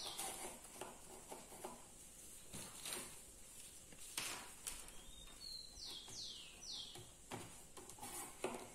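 A bird calls a little past the middle: a short whistle, then three quick notes each sliding downward. Around it, faint clicks and rustles of paper straws being handled and pushed into the holes of a board.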